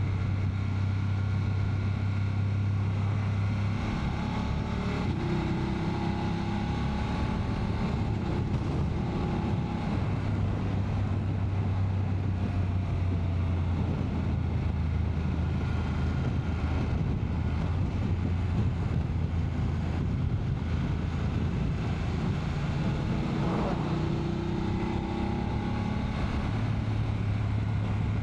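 BMW F 850 GS Adventure's parallel-twin engine running under way, with wind and road noise throughout; its steady low note drops away twice for several seconds and comes back.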